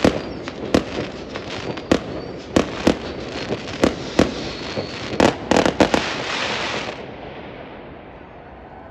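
Aerial fireworks exploding: repeated sharp bangs over continuous crackling, with a quick flurry of bangs about five to six seconds in. The display then dies away about seven seconds in, leaving a quieter background.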